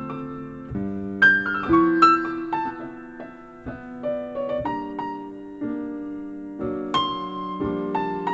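Piano playing slow ballad chords in an instrumental passage, each chord struck and left to ring and fade, reproduced through JBL K2 S5500 loudspeakers in a listening room.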